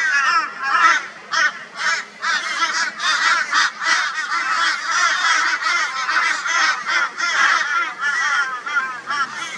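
A flock of crows cawing loudly and raucously, many calls overlapping with no break: the mobbing noise crows make to harass a barn owl.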